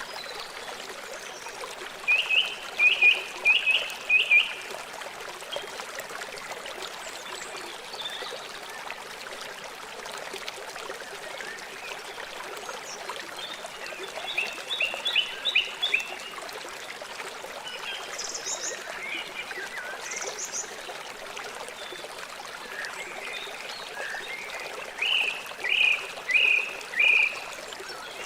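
Steady rushing and trickling of a river, with three bursts of short chirping calls, five or six quick notes each, about two seconds in, near the middle and near the end.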